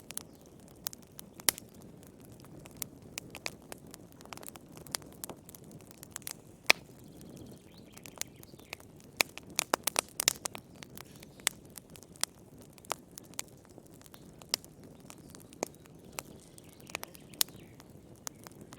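Wood fire crackling in a fireplace: irregular sharp pops and snaps over the low hiss of the flames, with a quick cluster of pops about ten seconds in.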